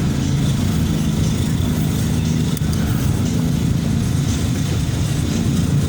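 Road vehicle's engine running steadily with road noise while driving.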